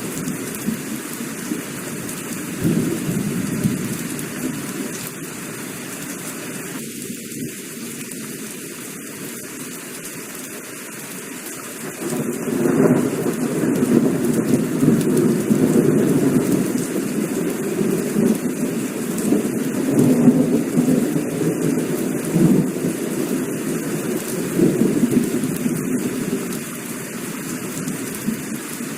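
Heavy rain falling steadily, with rolling thunder rumbling beneath it; the thunder swells about halfway through and keeps rumbling in waves.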